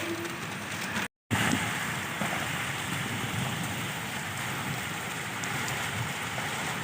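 Heavy rain falling steadily, an even hiss of rain on surfaces, with a brief dropout to silence about a second in.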